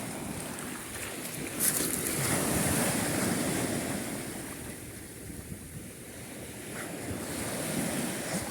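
Sea surf washing onto the shore, swelling and easing back, with wind on the microphone and a brief crackle about two seconds in.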